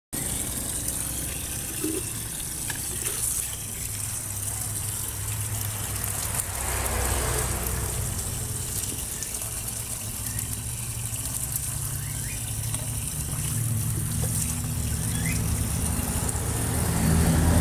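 Running water splashing during a pet lory's bath, over a steady low hum. A few faint short squeaks come in the second half.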